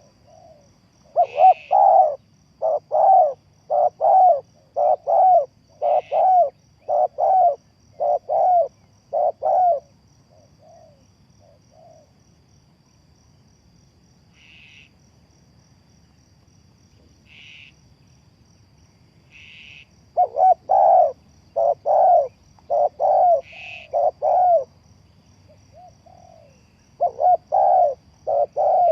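Spotted dove cooing in long runs of evenly spaced coos, about one every 0.7 s. The runs stop for about ten seconds mid-way, then start again. Another bird gives short higher chirps here and there, over a faint steady high trill like an insect's.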